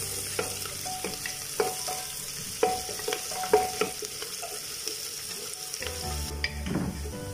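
Chopped coconut pieces and shallots sizzling in hot coconut oil in a pressure cooker as they are sautéed toward golden brown. A wooden spatula stirs them, knocking and scraping against the pot at irregular moments.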